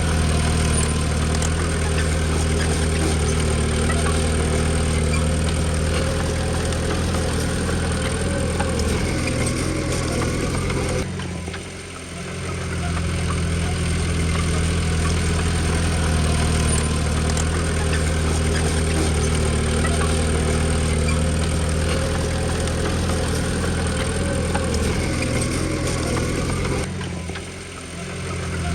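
Komatsu D20P bulldozer's diesel engine running steadily. The sound dips briefly and comes back twice, about eleven seconds in and near the end.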